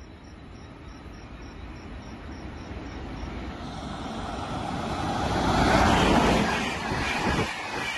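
Express train hauled by a WAP7 electric locomotive passing at about 110 km/h. A low rumble grows steadily louder into a rush of wheel and wind noise as the locomotive goes by about six seconds in, then the coaches rattle past.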